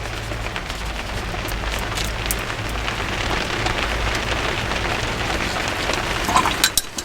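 Hard rain falling steadily, heard from inside a garden studio as a dense, even patter.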